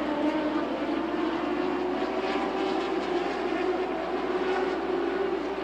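California Lightning Sprint cars racing, several engines running together in a steady drone.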